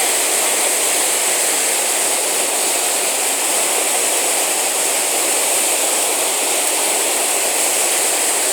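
Whitewater rapids of the Chattahoochee River rushing in a loud, steady wash of water noise, the river running high and powerful from a dam release.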